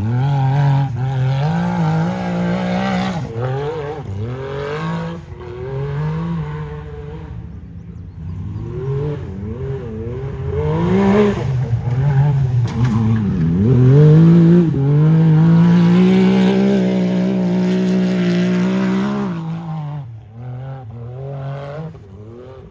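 Race UTV engine under hard throttle, its revs climbing and dropping again and again as it is driven over the course; loudest about two-thirds through, then fading near the end.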